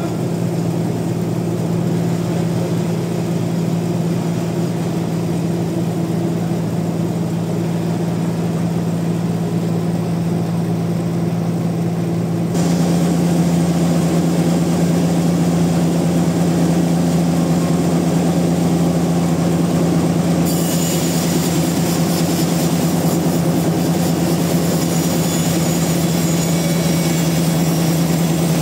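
Sawmill machinery running with a steady, loud hum. About twelve seconds in it steps up to a louder, fuller running, and a high hiss joins near the twenty-second mark.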